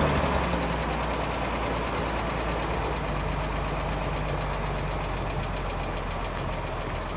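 Nissan 300ZX's 3.0-litre V6 idling steadily, its revs having just fallen back from the rev limiter, with a light, even ticking over the low hum.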